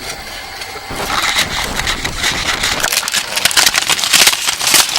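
Aluminium foil pouch being unwrapped by hand: crinkling and rustling that starts about a second in and grows louder.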